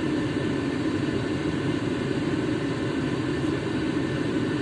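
Steady whir of a running motor, unchanging throughout.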